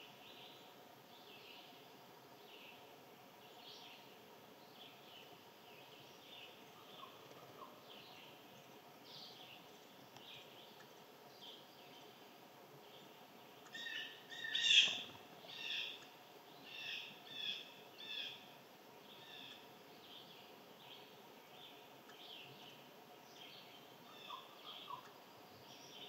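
Small birds chirping with short repeated high notes, and a louder run of several calls a little past halfway through.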